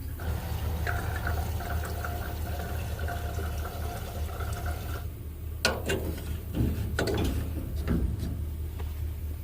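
Gasoline being poured into a truck, a steady stream for about five seconds, then a few sharp knocks and clunks.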